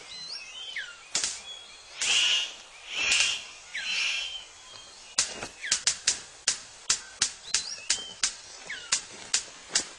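Male superb bird of paradise displaying: three harsh bursts and a few falling whistled chirps, then from about halfway in a steady run of sharp snapping clicks, about three to four a second.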